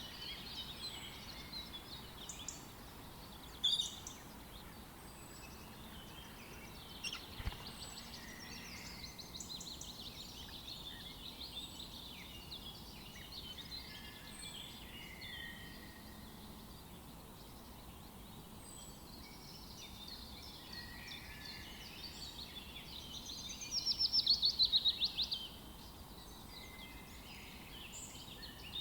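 Several birds chirping and singing over one another. Late on, a loud rapid trill lasts about two seconds.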